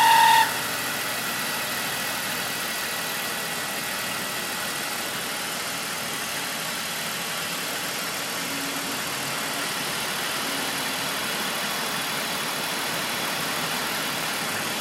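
BMW 330Ci screech: a high-pitched squeal that cuts off about half a second in, followed by the car running steadily.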